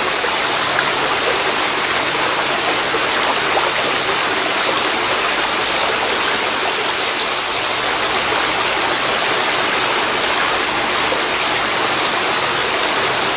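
Waterfall pouring into a river: a steady, loud rush of falling and flowing water.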